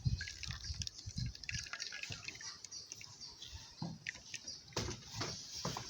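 Coconut milk dripping and trickling through a sieve as grated coconut is sieved, with scattered soft knocks and clicks.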